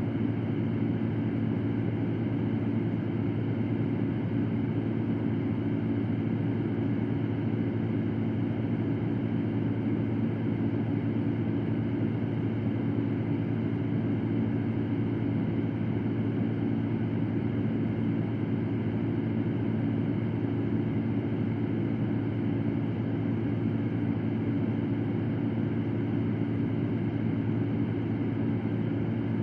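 Electric fan running steadily: a low, even hum under a constant rush of air.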